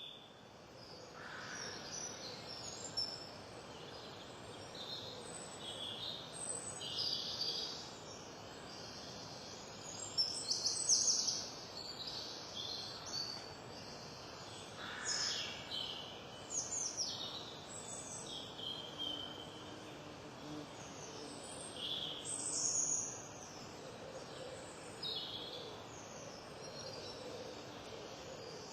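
Garden songbirds chirping and twittering, many short calls and brief trills coming one after another, over a steady background hiss.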